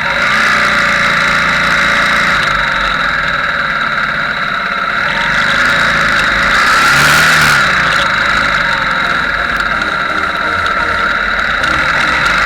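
Motorbike engine running steadily during a ride, loud and even, swelling briefly about seven seconds in.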